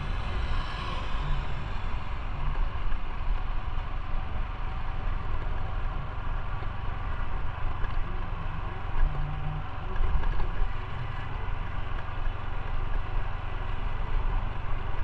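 Motorcycle engine running steadily, a continuous low drone.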